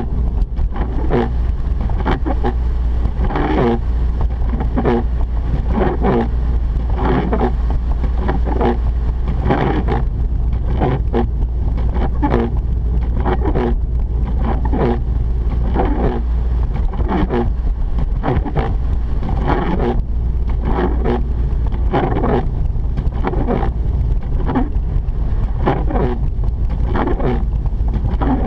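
Inside a Mazda RX-8 while driving: a steady low rumble from the rotary engine and tyres on the road, with a short sound repeating about once a second.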